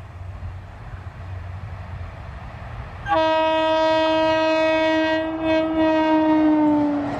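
Indian Railways train horn: one long blast of about four seconds, starting suddenly about three seconds in, its pitch dropping slightly just before it stops. Under it is the rising rumble of an approaching train.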